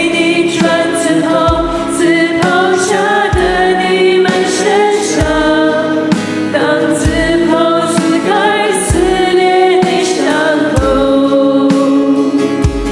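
Chinese Christian worship song: a choir singing over a band, with a low drum beat about every two seconds.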